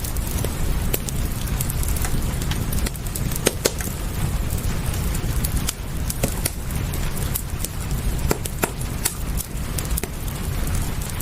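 Wood fire crackling in a fireplace, with many sharp pops and snaps scattered irregularly over a steady low rumble and a soft hiss of rain.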